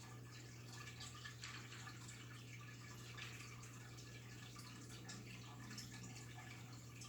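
Ranchu goldfish feeding at the water surface: faint, irregular small pops and drip-like clicks as they gulp sinking food pellets, over a steady low hum.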